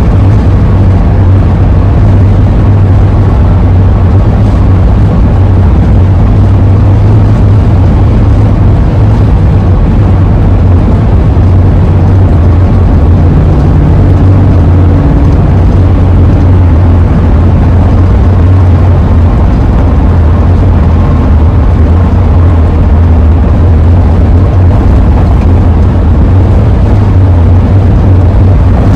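Steady, loud low drone of a Ford E-350 van driving at speed: engine, road and wind noise, unchanging throughout.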